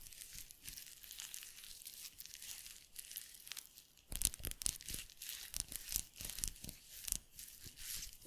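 Crinkling and rustling right at the microphone, with quick sharp crackles that come thickest in the second half.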